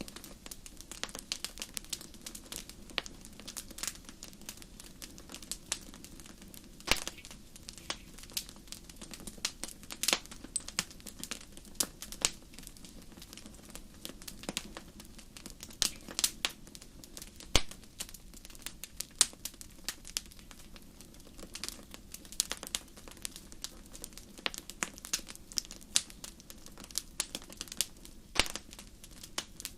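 Wood fire crackling in a fireplace: irregular sharp pops and snaps, some much louder than others, over a faint steady low background.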